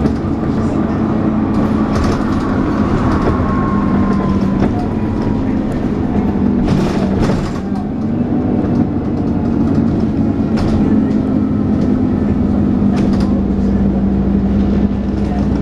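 Dennis Trident 2 double-decker bus engine running under way, with a whine that falls in pitch a few seconds in: the 'hoover' whine bus enthusiasts know from this type. The engine note dips briefly about halfway through, and body rattles and knocks come through at intervals.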